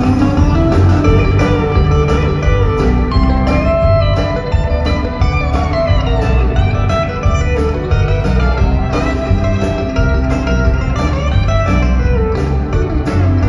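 Live country band playing an instrumental break: a guitar lead over bass and a steady beat, with no singing.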